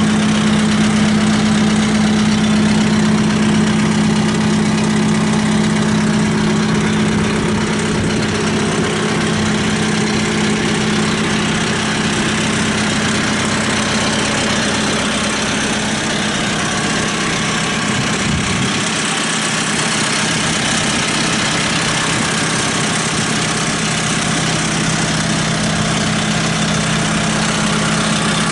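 Kubota M7060 tractor's four-cylinder diesel engine idling steadily.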